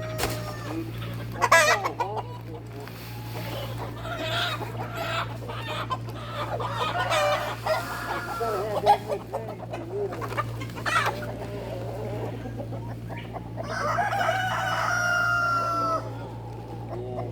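Roosters crowing and hens clucking, several birds calling over one another, with one long crow near the end. A steady low hum runs underneath.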